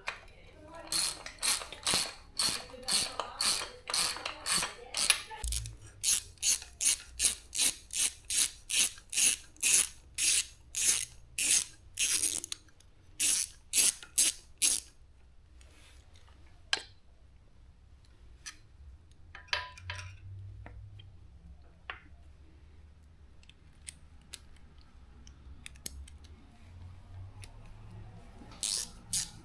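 Hand ratchet wrench being worked on the motorcycle's bolts, its pawl clicking in quick even strokes about twice a second. The strokes stop about halfway through, leaving a few scattered clicks and a low hum, and start again near the end.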